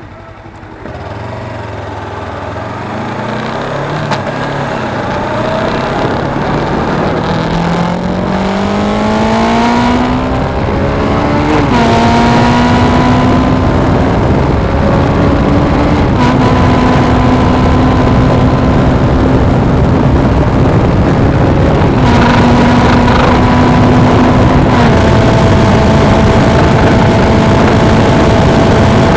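Suzuki V-Strom 250's parallel-twin engine pulling away and accelerating, its pitch rising for about ten seconds. It then shifts up through the gears, each shift a sudden drop in pitch, and settles into a steady cruise. Wind noise on the camera builds as speed rises.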